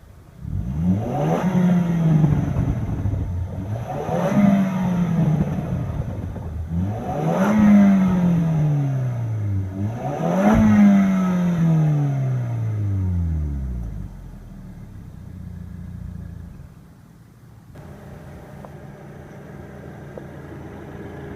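2014 Range Rover Evoque's 2.0-litre turbocharged four-cylinder engine revved four times, each rev climbing and then falling away, before dropping back to a steady idle.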